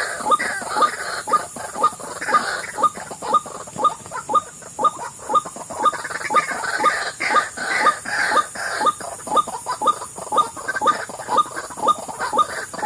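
White-breasted waterhen calls: a loud, rhythmic series of short croaking notes repeated about two to three times a second.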